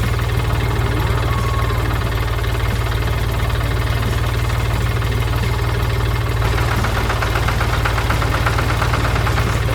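Heavy equipment diesel engine running steadily with a deep, even hum. About two-thirds of the way through, a rapid, even ticking joins it.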